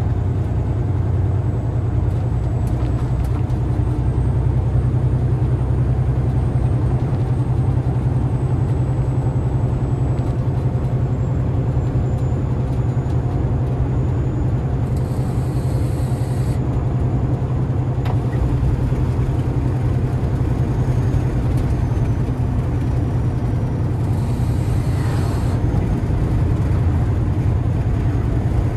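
Peterbilt semi-truck's diesel engine droning steadily at cruise, with road noise, while the truck is driven. Twice a short high hiss sounds over the drone.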